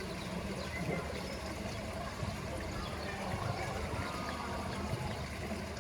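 Water trickling steadily, a continuous, even splashing.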